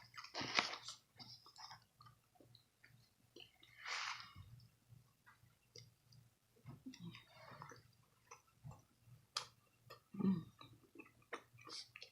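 Chewing and mouth noises of a person eating flatbread close to the microphone: scattered small wet clicks and smacks, with a breath through the nose about four seconds in.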